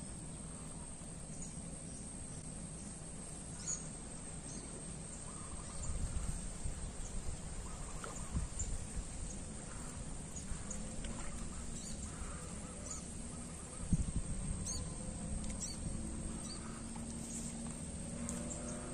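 Outdoor ambience with faint bird calls over a steady low background hum, and a single thump about 14 seconds in.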